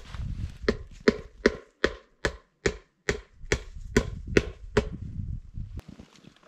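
Rapid, evenly spaced hammer blows on wood, about two and a half a second, a dozen in all, stopping a little under five seconds in: nailing up a wooden marten trap box.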